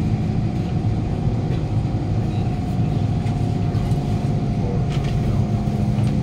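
Steady hum and low rumble inside a Kawasaki C151 train carriage standing at a station platform, with a few constant tones from its onboard equipment; a faint higher tone drops out near the end.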